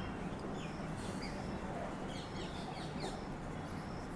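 Faint birds chirping, a few short high chirps scattered over a steady background hiss.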